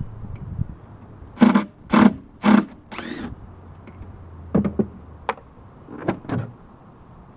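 A panel inside a vehicle's cargo area being knocked loose by hand. Three hard knocks come about half a second apart, then a brief ringing scrape, then a few lighter knocks and clicks as it is worked free.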